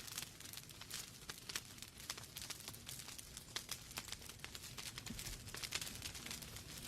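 Wood fire crackling in a fireplace: logs burning with irregular sharp pops and snaps over a soft steady hiss.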